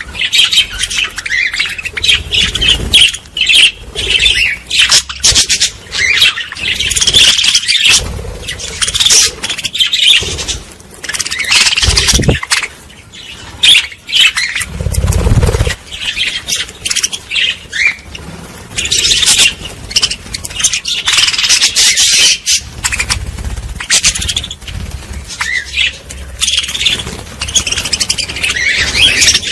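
A flock of small birds chirping and squawking in quick, overlapping bursts. There are two brief low thumps about halfway through.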